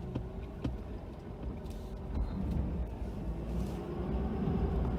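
Ford F-250 pickup running under load while plowing snow, a low steady rumble heard from inside the cab, growing a little louder toward the end.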